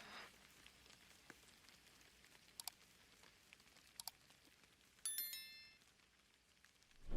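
Faint hiss with a few soft clicks, then a short bright chime about five seconds in that rings briefly and fades, and a brief thump at the very end.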